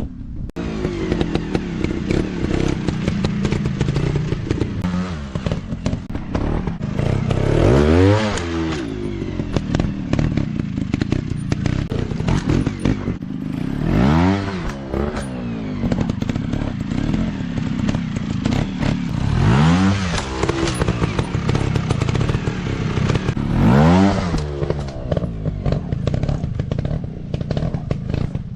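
Off-road motorcycle engines running hard, revving up and back down four times, with rattling knocks throughout.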